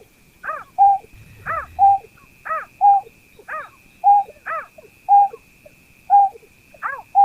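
Berkik (pekung) calling: a two-part call repeated about once a second, a short note that rises and falls followed by a short steady lower note. A faint steady high whine runs underneath.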